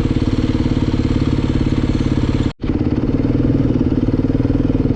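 Dirt bike engine running steadily at low speed. The sound drops out for a moment about halfway through, then picks up again unchanged.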